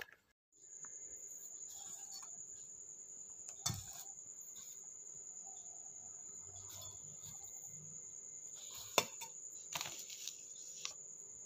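A steady, faint high-pitched whine or trill, with a few scattered clicks and knocks, the sharpest about nine seconds in.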